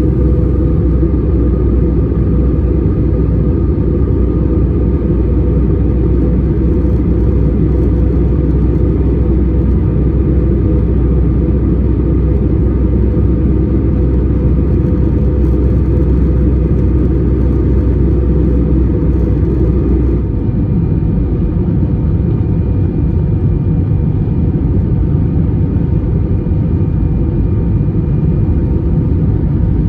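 Airbus A320 cabin in flight: steady rumble of the engines and airflow with a faint steady hum. About two-thirds of the way through, the deepest part of the rumble drops away.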